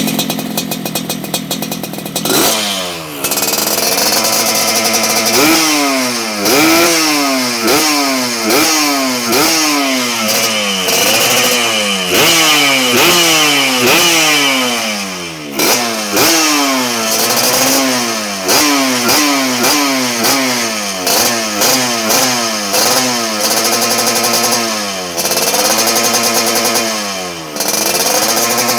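Yamaha RX-King two-stroke motorcycle engine through a polished aftermarket racing exhaust. It idles with a crackle at first, then is blipped over and over, the revs shooting up and dropping back about once a second, with a few longer revs held near the end.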